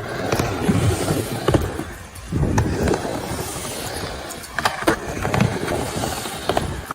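Skateboard wheels rolling and rumbling on a hard surface, with several sharp clacks of the board.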